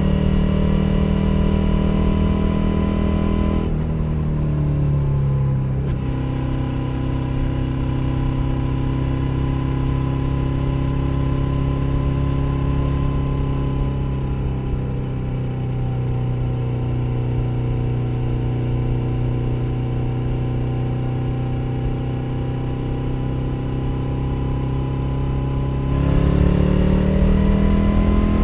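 Suzuki SV 650's 645 cc V-twin engine under way. It eases off and drops in pitch about four seconds in, runs at a steady cruise, then gets louder with rising pitch as the throttle opens near the end.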